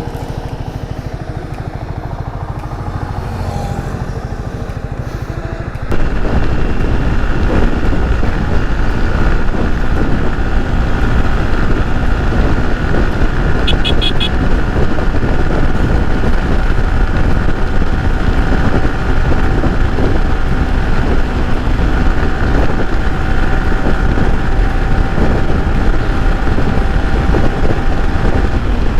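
Yamaha R15 V3 single-cylinder motorcycle riding on a highway, its engine running steadily under a heavy rush of wind and road noise. The sound jumps suddenly louder about six seconds in and stays there, with a brief run of short, high beeps a little before halfway.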